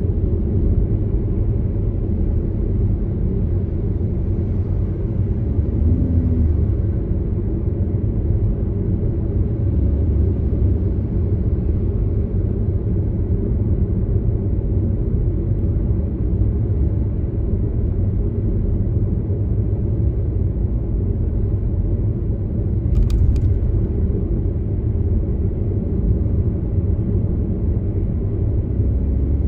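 Steady low rumble of a car driving, mostly road and engine noise, with one brief click about three-quarters of the way through.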